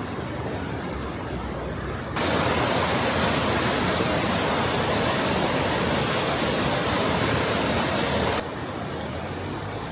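Rushing river water, a steady noise. It turns abruptly louder and fuller about two seconds in and drops back just as suddenly about two seconds before the end.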